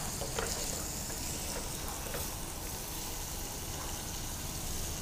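Julienned vegetables and paneer sizzling in a hot oiled pan as they are stir-fried, a steady frying hiss with a few light spatula taps in the first couple of seconds.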